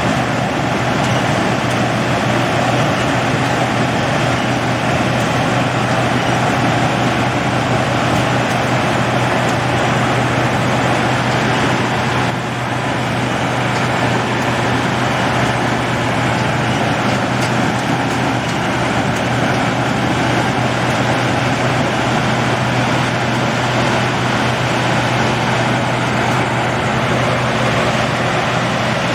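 Combine harvester running steadily, a continuous loud engine drone with a constant low hum, dipping slightly for a moment about twelve seconds in.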